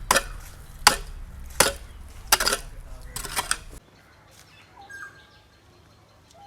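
A digging tool striking into earth, about one blow every three-quarters of a second, as a pit is dug. The blows cut off suddenly about four seconds in, leaving faint bird chirps.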